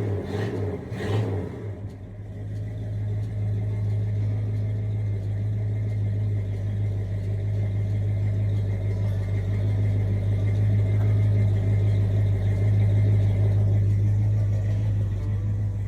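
Rebuilt Buick 455 V8 running: a couple of short surges at the start, then a steady, even low note that swells a little louder towards the end.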